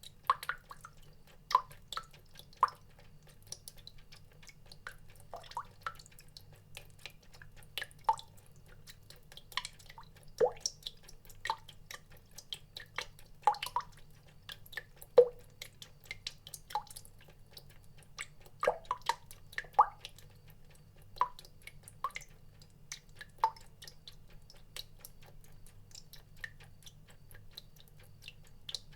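Water drops falling one at a time at an irregular pace, each a short pitched plink at a different pitch. A faint steady low hum lies underneath.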